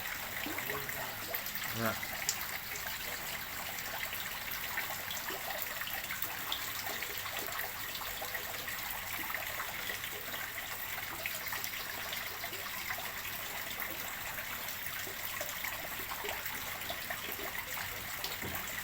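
Water running steadily into a fish pond as it is refilled, an even splashing and trickling.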